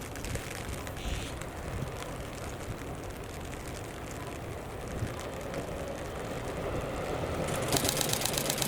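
A train approaching, its running noise growing steadily louder over the last few seconds, with a brief fast high rattle near the end.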